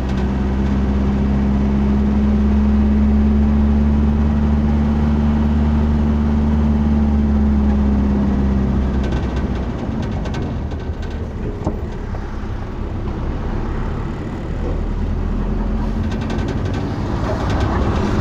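Steady drone of a running vehicle's engine, a low hum that eases off about halfway through and picks up again near the end.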